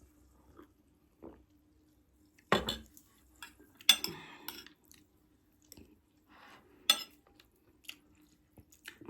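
Cutlery clinking and scraping against a plate of jollof rice while eating, with a few sharp clinks (the loudest about two and a half, four and seven seconds in) and some quiet chewing between them.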